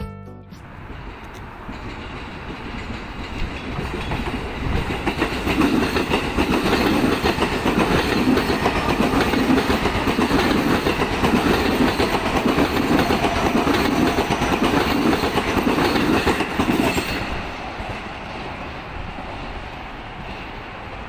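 A JR E233-1000 series electric commuter train passes close by, its wheels rumbling and clicking on the rails. The noise builds over the first few seconds, stays loud for about ten seconds, then drops off sharply as the train goes by and fades to a lower rumble.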